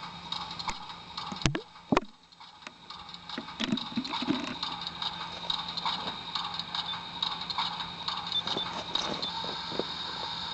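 Small train running along its track: a steady hum and whine with irregular clicking and knocking, two sharp knocks standing out in the first two seconds.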